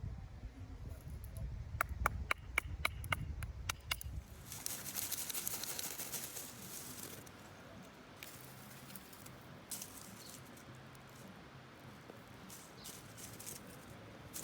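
Campfire tinder being lit: a quick run of sharp clicks, then from about four seconds in a hiss that fades into faint, light crackling.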